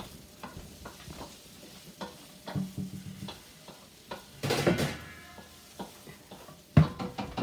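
A faint steady sizzle of food cooking in a pan on the stove, with small utensil clicks; about four and a half seconds in there is a louder clatter of cookware, and a sharp knock near the end.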